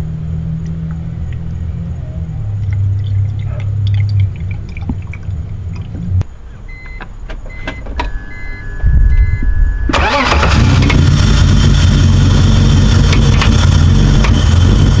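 BMW E46 engine running steadily, then cutting off about six seconds in. A few short electronic beeps follow, then the engine cranks and starts at about nine seconds and runs loud, with its intake box removed.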